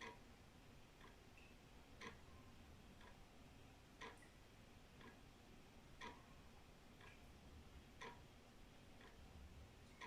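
Old wall clock ticking steadily, one tick a second, alternating a louder tick and a softer tock, over a faint low rumble.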